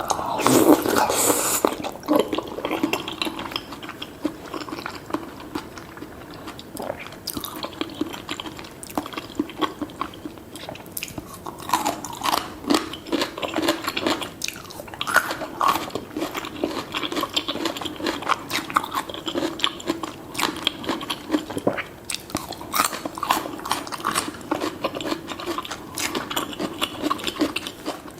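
Close-miked eating sounds from spicy seafood noodle soup with tofu: chewing and biting with many small wet smacks and clicks, and a louder noisy burst in the first two seconds.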